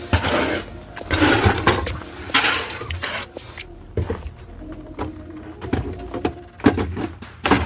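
Snow shovel scraping through snow in repeated strokes about a second apart, then a few sharp knocks in the second half.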